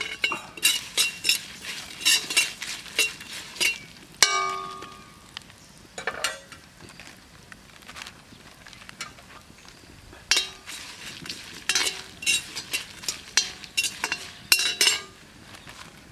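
Metal spoon or ladle clinking and scraping against a metal cooking vessel in quick runs of sharp clicks, with a ringing strike on the vessel about four seconds in and more ringing knocks later on.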